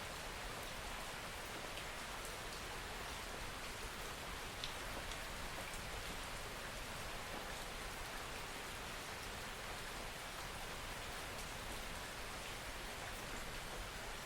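Steady rain falling, a dense even patter with the occasional single drop ticking a little louder above it.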